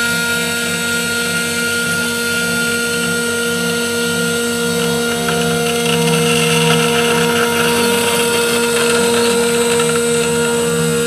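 A CNC 3040 desktop router's spindle whines steadily while its cutter mills 6082 aluminium, with a harsher cutting hiss that swells a little past the middle.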